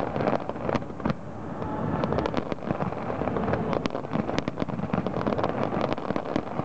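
Aerial fireworks going off in quick succession: a dense run of sharp bangs and crackles over a continuous low rumble.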